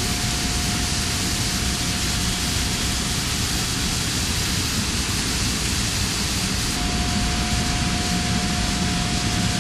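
Steady, loud rushing noise of industrial machinery running, with a constant high whine that fades briefly midway and comes back.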